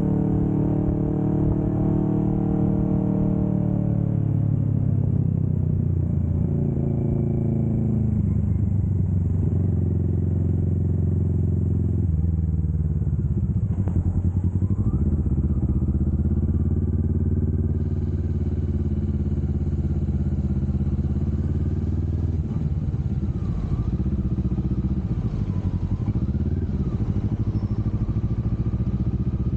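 Kawasaki Vulcan S 650 parallel-twin engine running under way on a highway ride. Its note drops over the first several seconds and shifts in steps a couple of times, then holds fairly steady.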